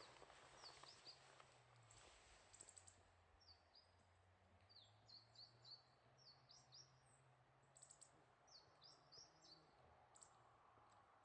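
Faint, high chirps of small birds: many short calls that slide downward in pitch, scattered throughout, over a quiet background with a faint low hum.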